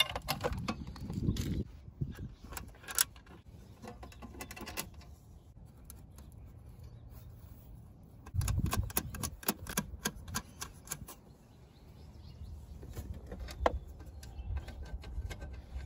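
Scattered small metallic clicks and taps as a license plate, its rusty steel bracket and bolts are handled and fitted together, with bursts of low rumble near the start and again about eight seconds in.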